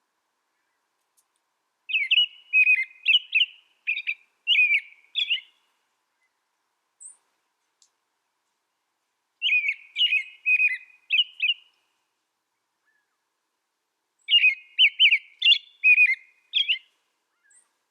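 A small songbird singing three short phrases of quick, high chirping notes, each a few seconds long, with pauses of several seconds between them.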